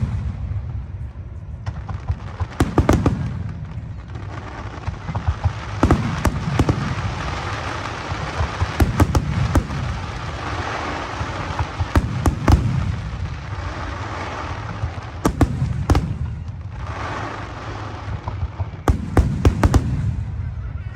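Aerial fireworks display: shells bursting in clusters of sharp bangs and deep booms every few seconds, over a continuous noisy wash between the bursts.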